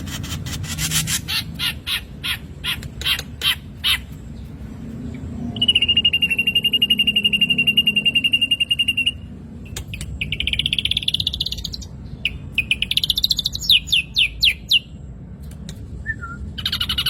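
Black drongo song: a run of sharp, evenly repeated chips, then one long steady whistle held for about three seconds, then quick trilled and rattling phrases.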